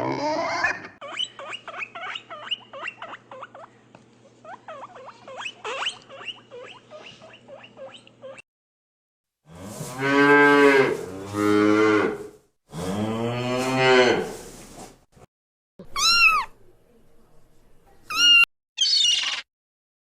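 A cow mooing: three long, low calls in a row, the loudest part, falling in the middle. Before them comes a run of quick clicks and chirps over a low hum, and near the end a few short, high calls that glide up and down.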